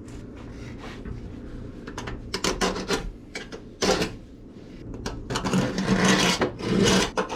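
Hand-tool scraping and rubbing strokes on sheet steel, irregular at first and then quicker and louder over the last couple of seconds.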